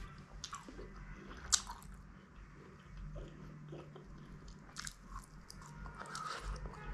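A person eating close to the microphone: chewing and biting mouth sounds, broken by a few sharp clicks, the loudest about a second and a half in.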